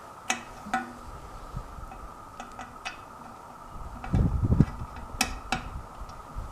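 Small metal clicks and clinks of hand tools and battery hardware as a ground strap is fitted to a tractor battery, with a heavier low bump of handling about four seconds in. A faint steady hum sits underneath.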